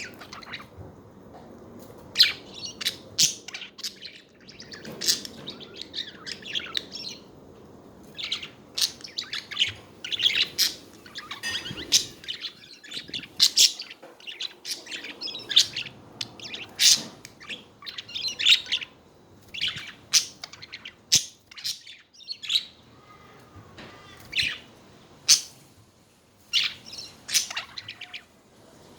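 Pet budgerigars chattering: a stream of short, sharp chirps and warbles, several birds calling over one another.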